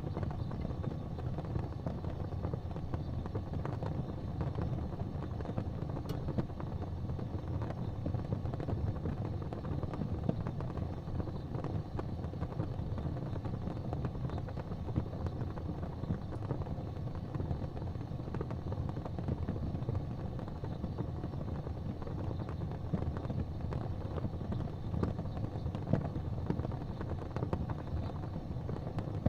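Fire burning in a fireplace: a steady low rumble with a few faint crackles scattered through it.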